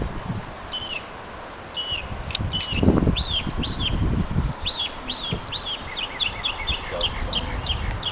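Songbirds chirping: a few separate short chirps in the first two seconds, then a quick run of chirps that speeds up toward the end. A low rumble on the microphone sounds for a second or two around the middle.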